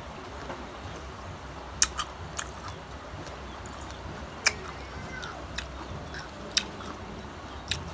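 Close-miked chewing of crisp unripe green mango, with sharp crunches every second or so.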